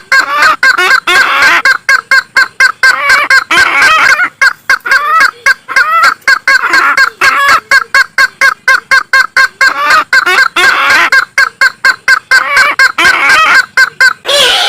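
Kareo sulawesi (isabelline bush-hen) calls played as a lure recording: a loud, fast run of short, harsh, looping notes, about four to five a second, without a break.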